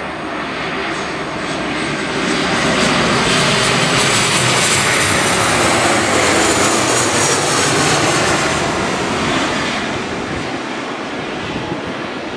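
Boeing 737 jet airliner's CFM56-7B turbofans passing on landing approach: a broad jet rush with a faint high whine, swelling to a peak a few seconds in and then fading away.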